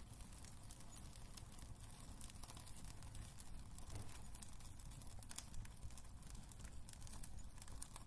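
Wood fire crackling in a fireplace: irregular small pops and snaps over a low, steady rumble of the burning.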